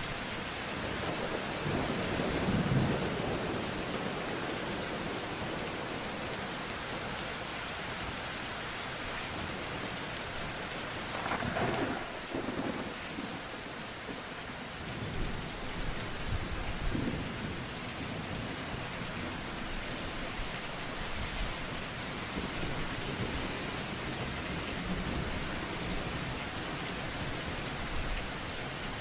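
Steady rain with thunder rumbling, a low roll about two and a half seconds in and a louder one near the middle.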